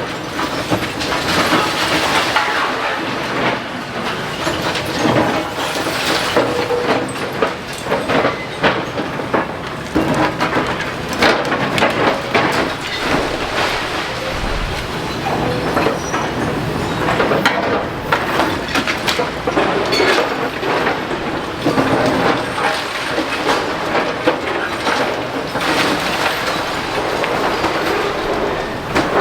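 Demolition excavator breaking up a masonry building: continuous loud clattering and crunching of rubble, with many irregular knocks and impacts.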